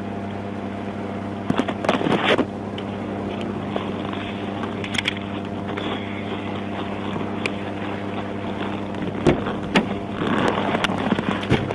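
Steady low hum of an idling vehicle engine. Scattered short clicks and rustling noises come about 2 seconds in, around 5 seconds and near the end.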